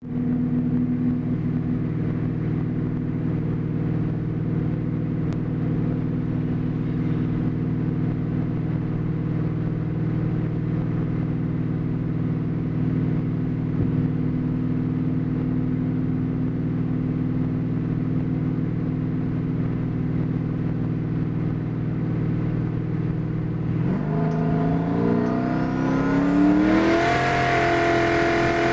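Twin-turbocharged Mustang 4.6-litre two-valve V8 idling steadily, then revved up for a few seconds near the end. A thin whistle climbs with the revs, and the revs drop back just as it ends.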